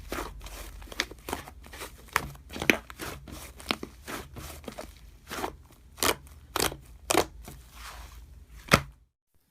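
Slime being worked by hand, with irregular crackling clicks and pops.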